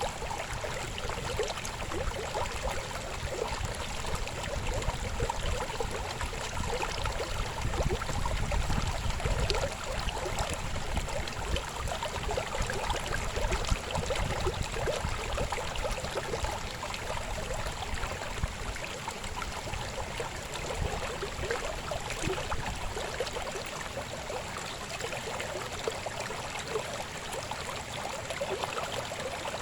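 River water flowing with a steady babbling, a little fuller and deeper in the first half.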